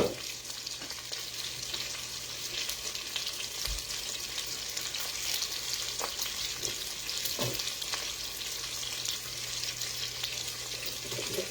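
Lamb chops frying in a hot pan: a steady sizzle with fine crackling of the fat. A few faint clicks come over it, along with a low steady hum.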